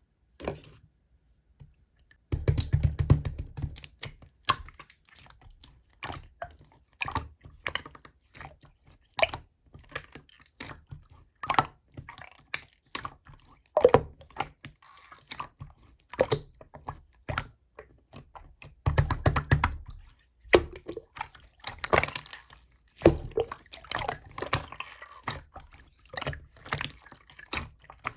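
Hands playing with slime: irregular sticky clicks and pops as it is pressed, stretched and poked. Two longer, louder squishing stretches come about two and a half seconds in and again near twenty seconds.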